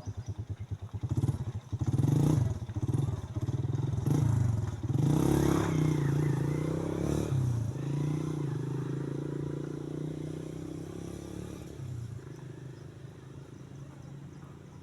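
A small engine that was idling is revved up and down several times, then runs at a steady speed and fades away gradually over the last few seconds.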